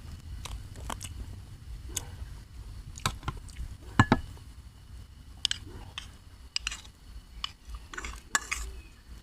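A person chewing a mouthful of spicy seafood papaya salad with rice noodles: irregular wet clicks and small crunches, the sharpest about four seconds in.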